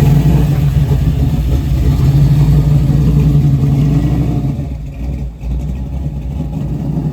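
Chevrolet Nova's engine and exhaust running with a loud, deep, steady rumble as the car pulls out, growing quieter about four and a half seconds in.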